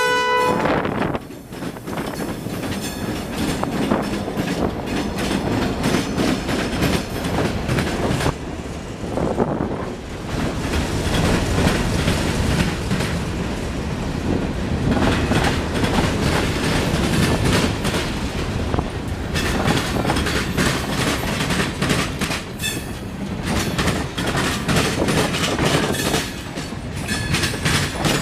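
A train passing close by: a steady rumble of railcars with wheels clicking over the rail joints. The end of a horn blast cuts off right at the start.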